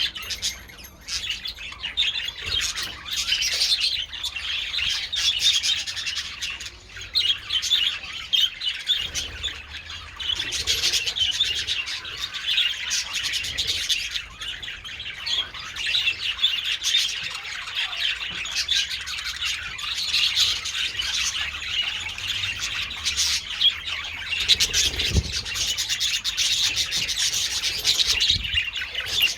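A colony of budgerigars chattering and chirping continuously, many birds calling over one another.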